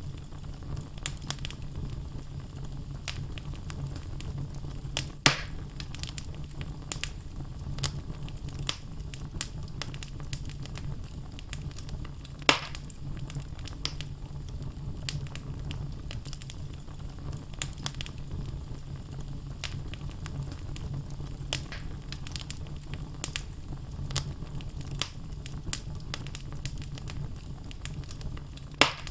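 Wood fire crackling in a fireplace over a steady low rumble of flames. Three louder pops from the burning logs come about five seconds in, near the middle and near the end.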